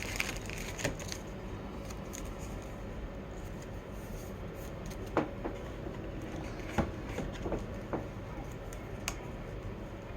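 Trading cards and packaging being handled: a few faint clicks and soft rustles over a steady low hum.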